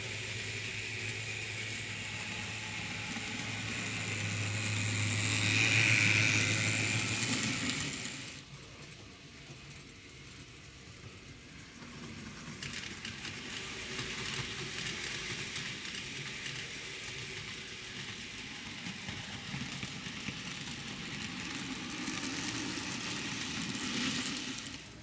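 N gauge model train running on the layout track: a small motor whirring with wheels on rail. It grows louder to a peak about six seconds in, fades away around eight seconds, then runs again, steadier, from about twelve seconds on.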